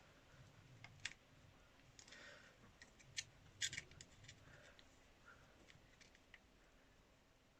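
Faint, scattered metallic clicks and a brief light scrape of hand tools and small parts working at an engine's valve spring and collets, the sharpest clicks about a second in and a quick cluster a little past halfway.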